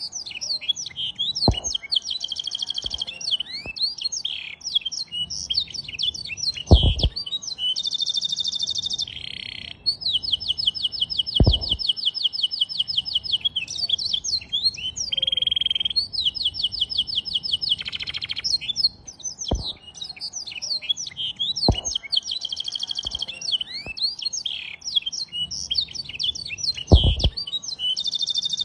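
Domestic canary singing a long, near-continuous song of quick warbles and long trills of rapidly repeated high notes, its song filled with phrases learned from a blackthroat. A few sharp knocks sound through it, the loudest about a quarter of the way in, near the middle and near the end.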